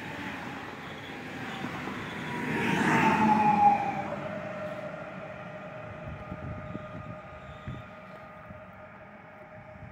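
Passenger multiple-unit train running past and pulling away: rumble of wheels on rail with a whining tone that drops in pitch as the rear of the train goes by about three and a half seconds in. After that a steady whine fades as the train recedes.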